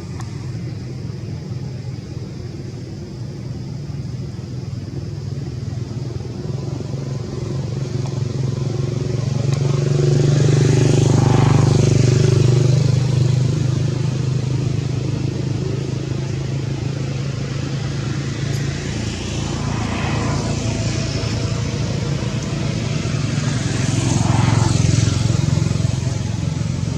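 Road traffic: motor vehicles running past on a street, with a steady low engine hum that swells to its loudest about ten seconds in and again near the end as vehicles pass.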